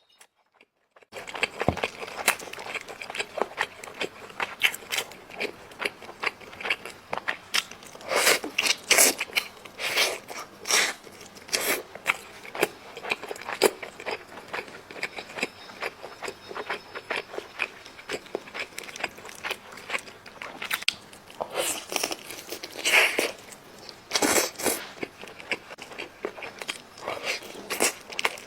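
A person bites and chews chicken close to the microphone, making many irregular sharp crunches and clicks. They follow about a second of near silence at the start, and the loudest clusters come about a third of the way in and again toward the end.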